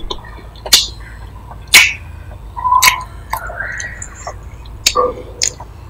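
Close-miked chewing of grilled beef with loud, wet lip smacks, about five sharp smacks spaced roughly a second apart, with softer mouth noises between them.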